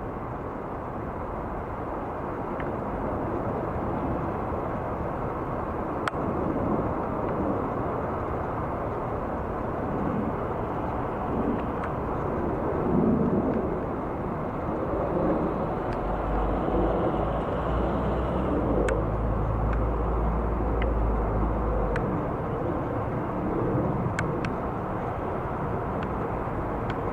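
Jet airliner engine noise, a broad steady rumble that swells a few seconds in and holds, with a few faint clicks.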